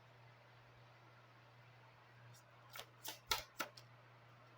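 Lenormand cards being handled and laid on the table during a reading: a quick run of four or five short clicks and taps about three seconds in, over a faint steady hum.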